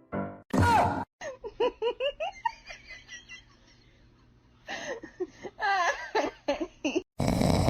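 A person laughing in runs of short giggling bursts, with a pause in the middle. Near the end a loud rushing noise starts suddenly.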